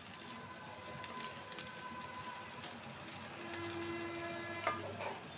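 Chopped radish and radish leaves sizzling in oil in a wok as a wooden spatula stirs them, with scraping and a sharp knock of the spatula on the pan near the end. A long horn-like tone sounds for about a second just before the knock, after steadier higher tones earlier on.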